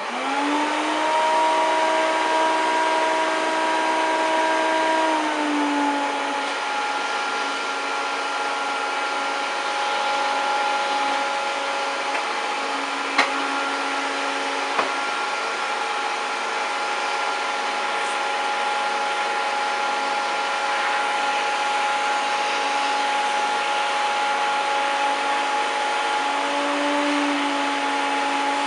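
1993 Hoover Turbopower 1000 vacuum cleaner switched on and running. Its motor whine climbs as it comes up to speed, drops in pitch about five seconds in, holds steady and rises slightly again near the end. Two sharp clicks come near the middle.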